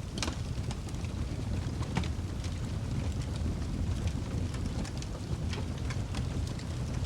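Crackling wood fire, a steady low rumble of flames with frequent sharp crackles and pops, the strongest just after the start and about two seconds in.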